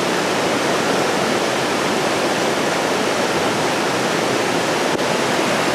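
Waterfall pouring close by, a loud steady rush of water with heavy rain falling.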